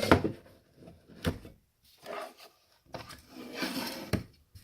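Small hand tools being handled on a workbench: sharp knocks near the start, about a second in and near the end, with scraping and rattling in between as screwdrivers are picked up and tried.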